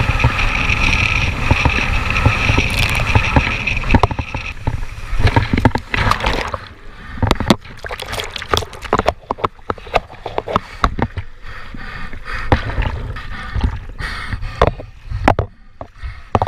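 Sounds of a boat out at sea: a steady whine over a low rumble for the first four seconds, then irregular sloshing, splashing and knocking of water.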